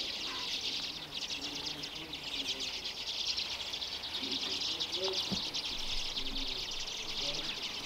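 Steady, dense high-pitched twittering of many small birds, unbroken throughout.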